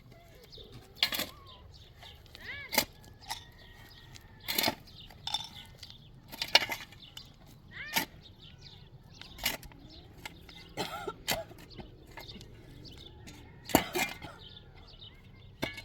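Irregular sharp knocks or clicks, roughly one every second or so, over a low steady background, with a few faint short chirps.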